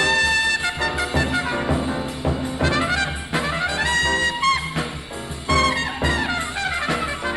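Live 1940s bebop jazz concert recording: a trumpet-led horn line plays fast runs over the rhythm section.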